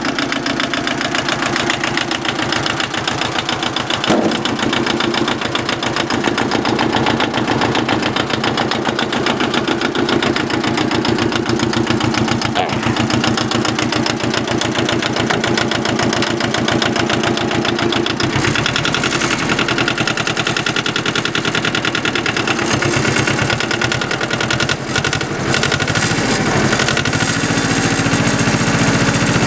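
Yanmar 18-horsepower two-cylinder diesel tractor engine running steadily, with an even, rapid chugging beat.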